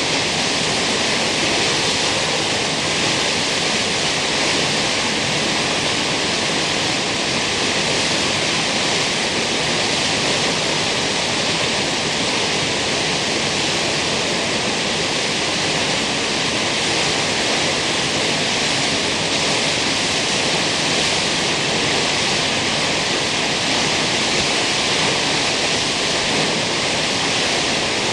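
Steady, unbroken rush of water from Kegon Falls, a tall waterfall plunging into its basin.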